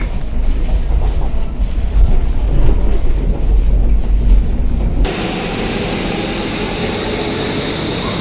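Modern Stockholm metro train running: a deep, heavy rumble for about five seconds, then an abrupt change to a steadier, quieter rush with a faint high whine.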